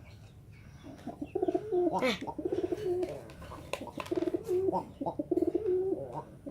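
Domestic pigeon cooing in repeated pulsing phrases, starting about a second in: the courtship cooing of a cock driving his hen, which the owner calls half-driving (setengah giring).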